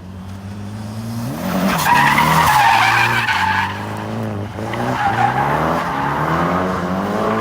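Drift car making a run: the engine revs up and down with the throttle while the tyres squeal and skid, loudest about two to three and a half seconds in, then the revs climb again towards the end.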